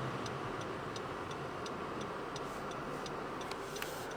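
A car's indicator relay ticking evenly, about three clicks a second, over the steady hum of the running car in the cabin.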